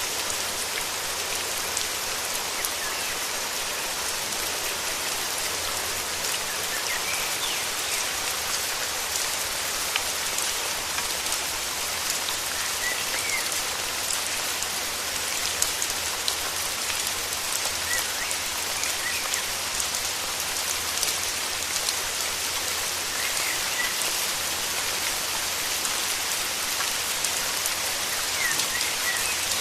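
Steady rain falling, with individual drops tapping through the hiss. Faint short bird chirps come every few seconds.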